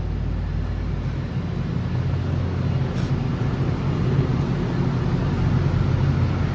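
Steady low engine rumble of a VIA Rail passenger train standing at the platform, idling before departure.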